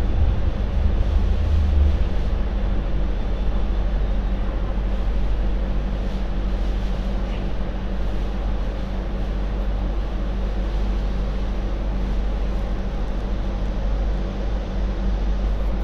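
MTR Light Rail Phase 4 two-car train running, with a steady hum of its traction equipment and wheels on the rails; the low rumble is strongest in the first couple of seconds.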